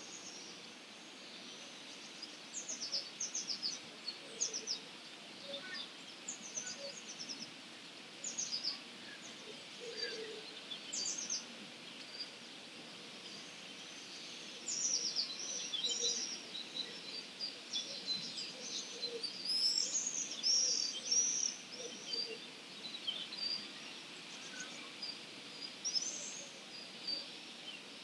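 Songbirds calling and singing at dawn: many short, high chirps and trills from several birds, busier and louder from about halfway through, over a steady background hiss, with a few faint low notes.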